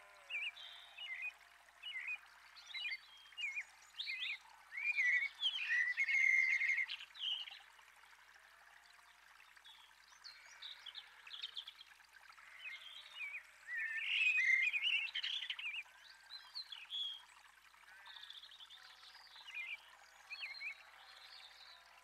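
Songbirds chirping and twittering in short repeated calls, with busier, louder bursts of chatter about five seconds in and again around fourteen seconds.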